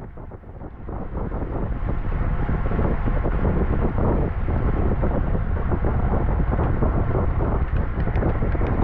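Wind buffeting the microphone of a camera on a moving road bike, a heavy steady rumble that grows louder over the first two seconds as speed picks up.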